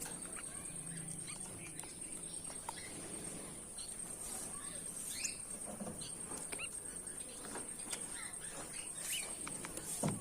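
Goldfinches giving scattered short chirps and quick sweeping call notes, over a steady high-pitched whine.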